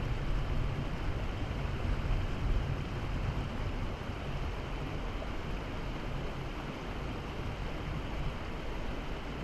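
Steady rushing noise of rain and floodwater, with a low rumble underneath and no distinct knocks or tones.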